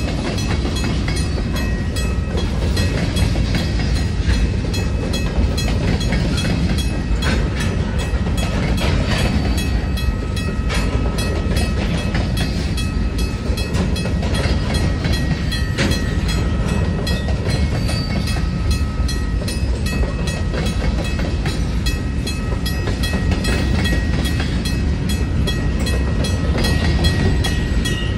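Freight train of covered hopper cars rolling past at close range: a steady low rumble of wheels on rail, with repeated clacks as the wheels pass over rail joints.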